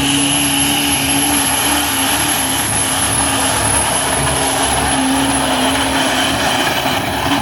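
Diesel pickup truck engine at full throttle under load on a truck pull, its turbocharger whistling high and steady over the engine.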